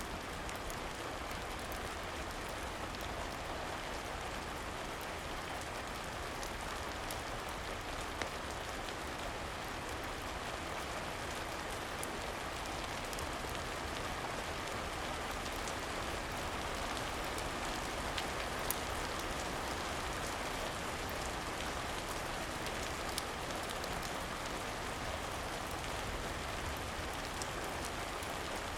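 Steady rain falling, an even hiss, with scattered small sharp ticks and pops through it.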